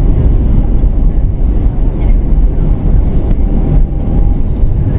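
Loud, steady low rumble inside the cabin of an Airbus A320 moving on the ground just after landing.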